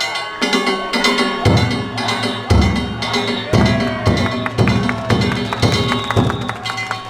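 Danjiri festival music (narimono): a taiko drum struck about once a second, small hand gongs (kane) clanging continuously, and a bamboo flute holding long notes.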